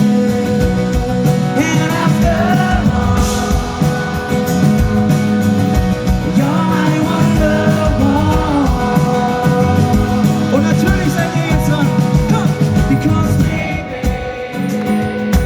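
Live acoustic guitar strummed with a voice singing over it.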